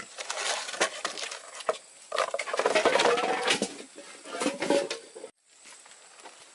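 Pigs feeding: a busy crackle of chewing and jostling at the feed, with short pitched squeals mixed in, that stops suddenly about five seconds in.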